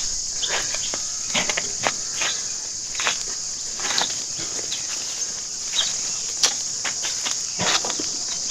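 Steady high-pitched drone of insects, with irregular footsteps crunching on a dirt trail.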